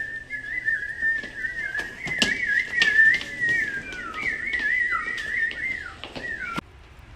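A warbling whistle that wavers up and down in pitch, with a few scattered clicks, cut off abruptly near the end.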